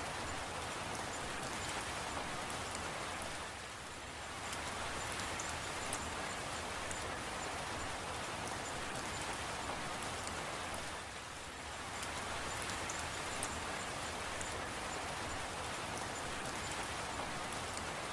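Steady rain falling, an even hiss with scattered small drop clicks. The hiss dips briefly twice, about seven seconds apart.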